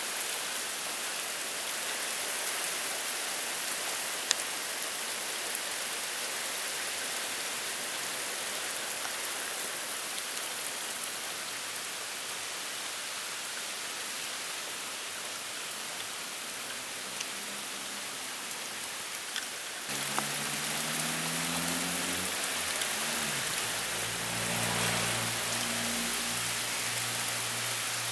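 Heavy rain pouring down steadily, with a few sharp drip clicks. About two-thirds of the way in, a low hum comes in and continues underneath.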